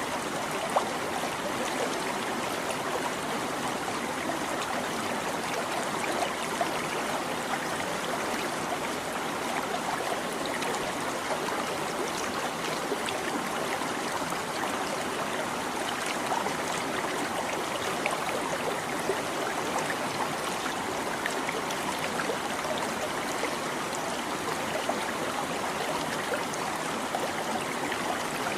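Stream water babbling steadily, with small splashes and gurgles here and there.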